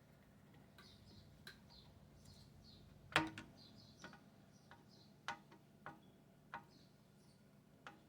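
Sharp metallic clicks and taps of a screwdriver and screw against the fare box's metal mounting bracket as a screw is worked in, about nine irregular clicks beginning about three seconds in, the first the loudest. Faint high chirps repeat throughout.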